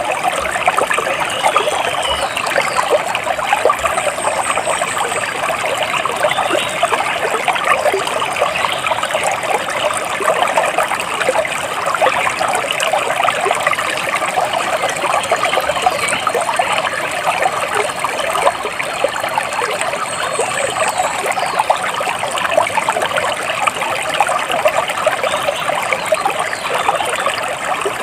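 Splashing, trickling water running steadily, with a few faint high bird chirps now and then.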